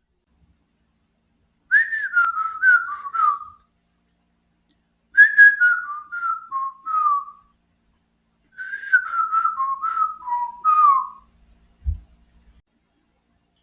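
Whistling in three short phrases, each a run of quick notes stepping down in pitch.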